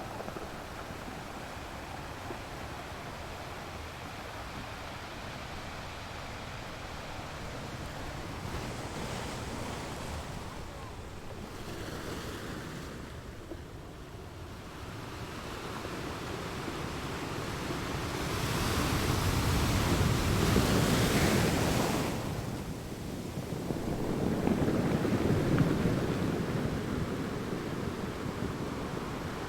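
Sea waves on a beach: a steady wash of surf, with a bigger wave breaking a little past the middle and a smaller one soon after.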